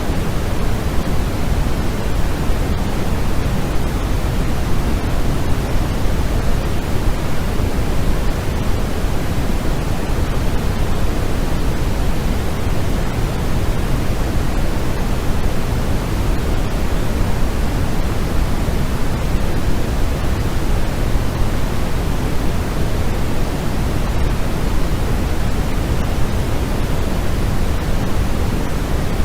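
Steady, unchanging synthetic noise from a white-noise sleep track, heavier in the low end than the high.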